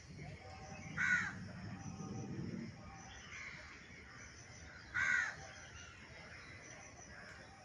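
A crow cawing twice, about four seconds apart, each caw short and loud.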